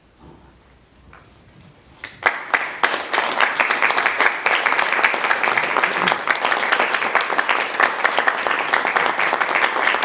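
Concert audience applauding, beginning about two seconds in after a brief quiet and continuing as steady, dense clapping.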